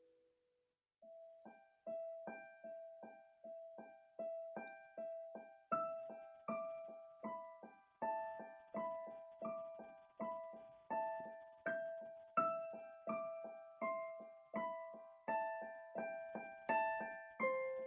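Solo piano playing slow, calm music: after a silent pause of about a second, an evenly repeated middle note sounds about twice a second under a gentle melody on higher notes.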